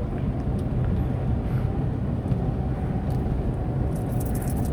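Steady in-cabin engine and road rumble of a Tata Nano's small rear-mounted two-cylinder petrol engine on the move, with a faint steady whine, and a brief rapid run of clicks near the end.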